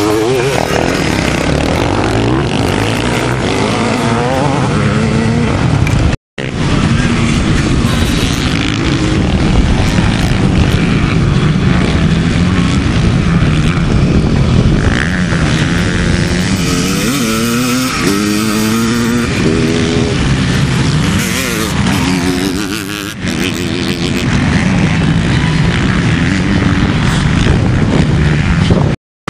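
Vintage motocross motorcycles, ČZ two-strokes among them, running on the track, engines revving up and down as they accelerate, shift and pass. The audio drops out briefly about six seconds in and again near the end.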